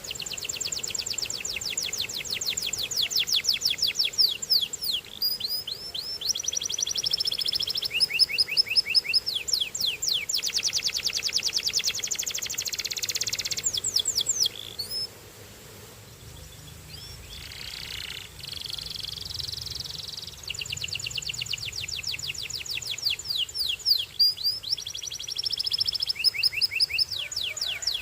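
Canary singing in long, fast trills of rapidly repeated notes mixed with quick sweeping notes, going softer about halfway through before the trilling picks up again.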